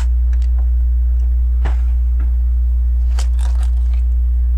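A few short clicks and rattles of LEGO plastic bricks being handled and pressed into place, a smooth tile going on. Under them runs a loud, steady low electrical hum.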